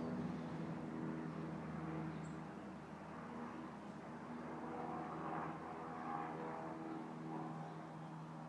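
Steady low hum of a motor vehicle's engine, with a higher tone swelling about halfway through, over a faint outdoor hiss.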